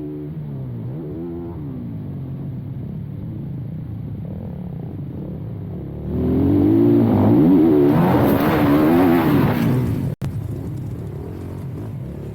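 Dirt bike engine running under varying throttle, its pitch rising and falling as it revs. It gets much louder, with a rushing noise over it, from about six to ten seconds in. The sound breaks off for an instant just after ten seconds.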